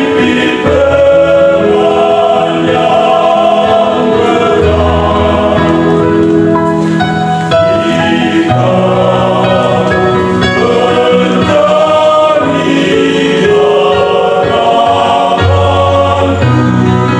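Choir singing a Christian gospel song in several parts, holding long chords that change every second or two.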